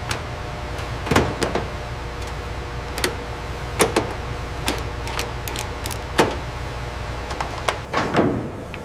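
Assembly-shop work noise: a steady machinery hum with irregular sharp knocks and clicks of tools and parts being handled, several seconds apart.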